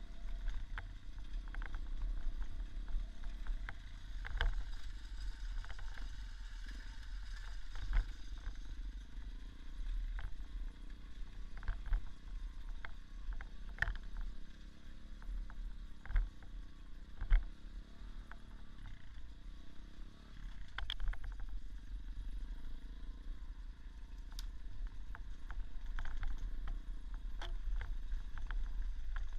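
Small dirt bike engine running on a rough forest trail, its pitch rising and falling with the throttle. Frequent knocks and rattles come from the bumps, with a few sharper knocks in the middle.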